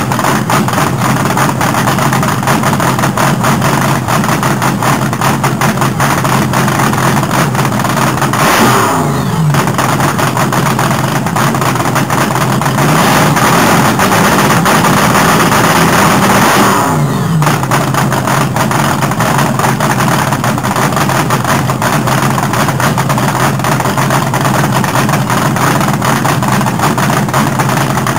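Car engine running and revving, loud throughout, with two sweeps in pitch about a third and two thirds of the way through.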